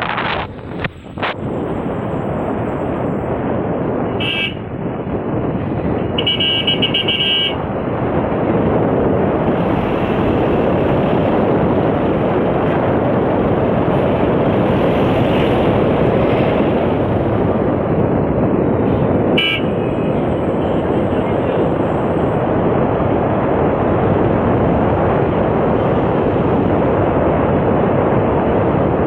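Steady rush of wind and a moving vehicle, with a horn sounding three times: a short toot about four seconds in, a longer blast around six to seven seconds, and another short toot near the twentieth second.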